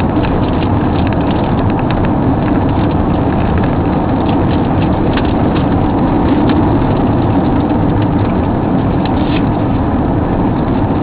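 Steady rumble and hiss of a car heard from inside its cabin, with faint scattered ticks.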